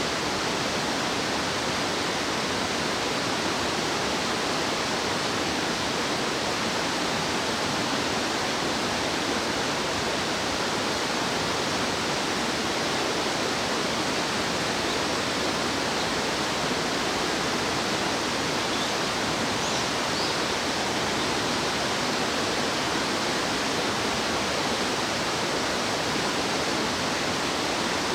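Stream water rushing steadily, a continuous even roar, with a faint brief high chirp about twenty seconds in.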